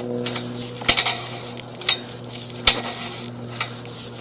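Sewer inspection camera's push cable being pulled back, giving sharp metallic clinks about once a second over a steady low hum.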